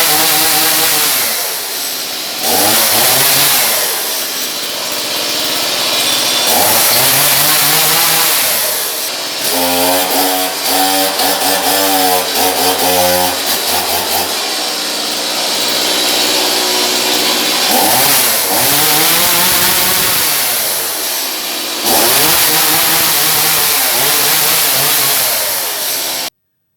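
Two-stroke chainsaw engine running and being revved up and down again and again, with a steadier stretch of running about ten seconds in, then cutting off suddenly near the end. Freshly fuelled, it runs in perfect condition.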